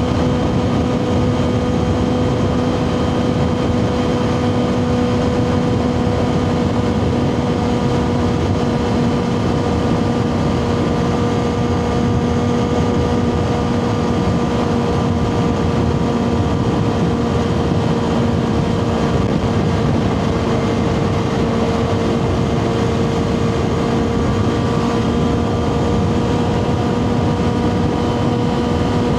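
2024 Kawasaki ZX6R inline-four sport bike with a Two Brothers slip-on exhaust, running at a steady engine speed while being ridden. The pitch eases down slightly about two-thirds of the way through, then settles again.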